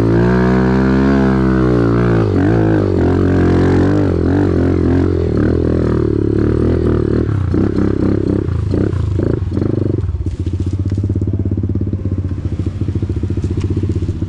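Off-road vehicle engine revving, its pitch rising and falling over the first few seconds, then running more steadily with an even, pulsing idle-like note from about ten seconds in.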